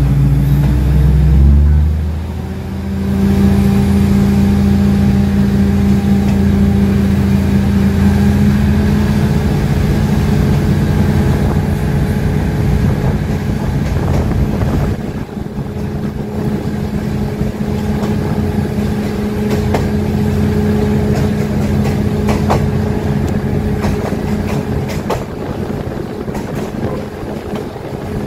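Diesel passenger train running, heard from aboard: a steady engine drone whose pitch steps up about two seconds in and eases about halfway through, with scattered clicks from the running gear in the second half.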